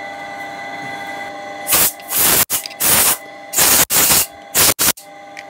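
A series of short, sharp hissing blasts of spray starting about two seconds in, about six in three seconds, over a steady background hum.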